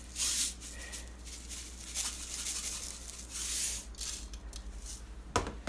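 Salt being dispensed over food: a soft, faint rasping that comes in a few short spells.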